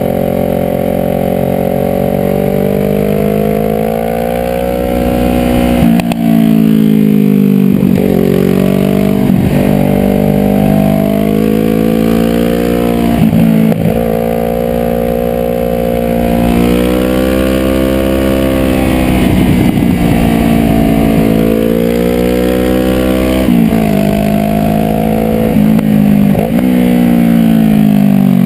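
Sport motorcycle engine revving up and down through a run of corners. Its pitch climbs under throttle and falls away sharply at each shift or roll-off, many times over, with wind noise on the microphone.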